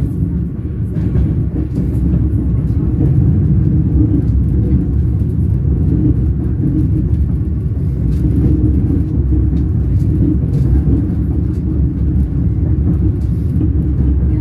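Train wheels rolling on the rails: a steady low rumble with faint, scattered clicks.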